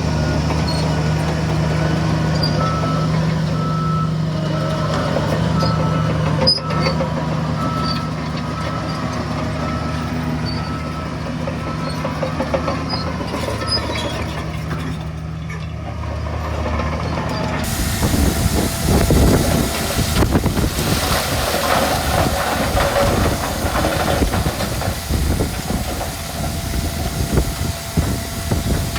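Heavy diesel machinery running steadily while a reversing alarm beeps repeatedly for a few seconds. About two-thirds of the way in, the sound changes abruptly to loud, rough rumbling and clatter of machinery at work.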